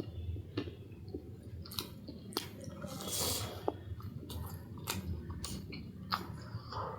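A person chewing food close to the microphone, with scattered short, sharp mouth clicks.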